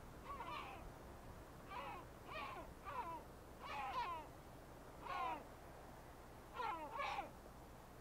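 Birds calling: a series of about eight short, rough calls, some in quick pairs, each under half a second.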